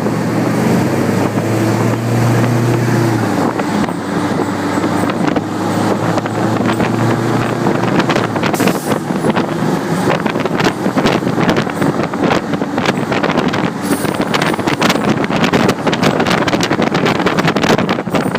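Fire engine driving past while responding to a call: a steady low droning tone for the first few seconds that fades out, then rough vehicle noise with wind buffeting the microphone.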